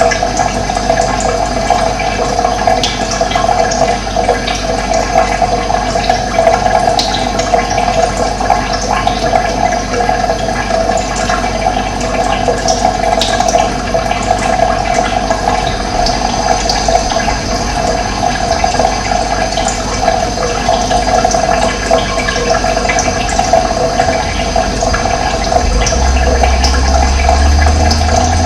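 Running water rushing steadily, with small birds chirping over it in short, scattered calls. A low hum comes in near the end.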